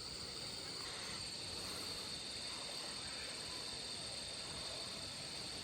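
Steady chorus of insects, a continuous high trill, over a faint even hiss of outdoor background noise.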